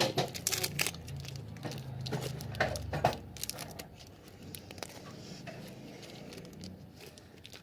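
Plastic packaging being handled and crinkled while being worked open, a run of small clicks and rustles that is busiest in the first three seconds and then thins out.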